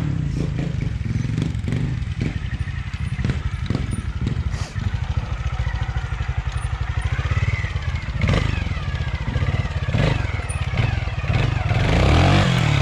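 Trials motorcycle engine running and blipped, with repeated knocks and clatter from the bike working over the obstacles.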